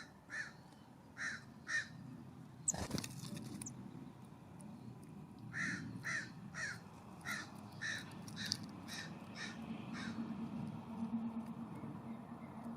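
California scrub-jay giving harsh, rasping calls, short notes repeated about two a second in two runs, four at the start and a longer run of about nine from the middle on. A brief sharp knock comes about three seconds in.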